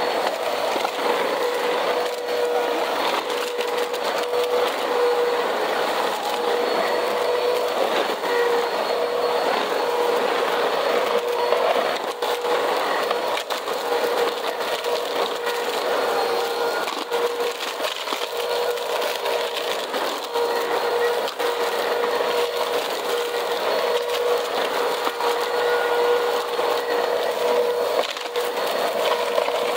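Vacuum cleaner running steadily on a cement floor, its motor giving a constant whine while debris crackles and rattles up the nozzle.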